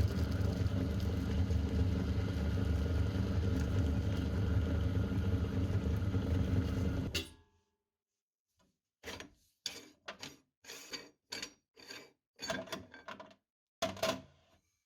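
Electric meat grinder running steadily under load as it grinds polymer clay, then switched off about seven seconds in, its noise cutting off suddenly. After a short silence come a string of short, sharp knocks at uneven spacing.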